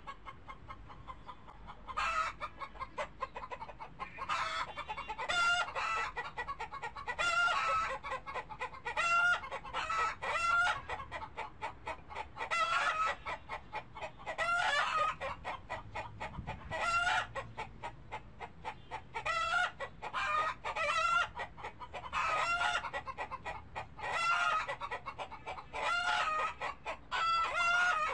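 Birds calling over and over: short, pitched calls in quick runs with brief pauses between them.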